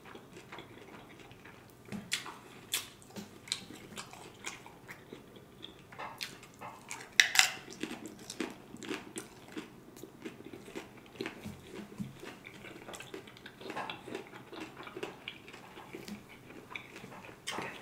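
A person chewing a crunchy hard-shell taco, with irregular crunches and wet mouth sounds; the loudest crunch comes about seven seconds in.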